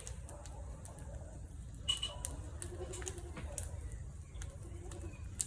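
Bonfire of burning furniture crackling, with sharp irregular pops every fraction of a second, over a steady low rumble of wind on the microphone.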